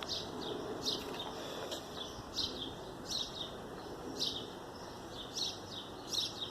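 A small bird chirping over and over, short high falling chirps about one or two a second, over a steady background hiss.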